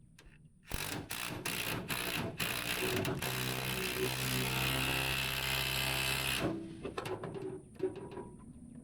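A power drill driving a bolt: several short trigger bursts, then about three seconds of steady spinning that stops suddenly. It is the bolt stripping out.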